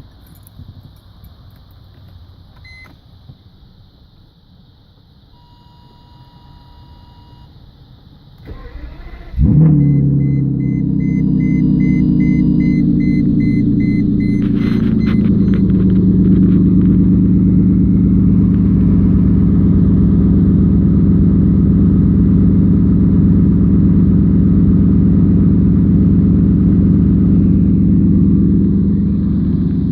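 A straight-piped Mercedes S600 coupe's V12 is cranked by the starter about eight seconds in and catches with a loud flare. It then settles into a steady idle. Before and just after the start, a few short electronic beeps sound.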